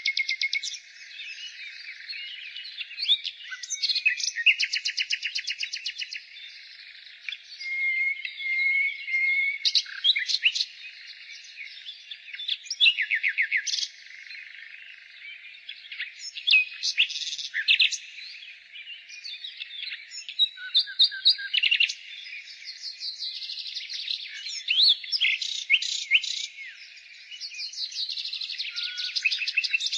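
Nightingale singing: phrases of rapid repeated notes and trills alternating with held whistled notes and quick pitch glides, one phrase after another.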